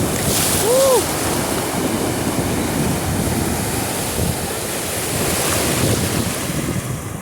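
Ocean surf breaking, with wind rushing over the microphone in a steady loud roar of noise. About a second in, a brief tone rises and falls once above it.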